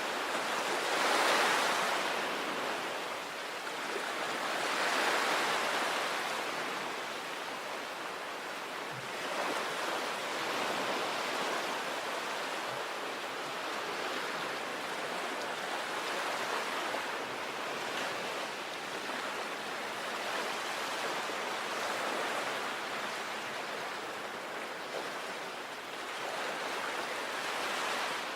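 Sea waves breaking and washing on the shore, a continuous rushing wash that swells with a louder surge about a second in and another about five seconds in, then settles into smaller surges.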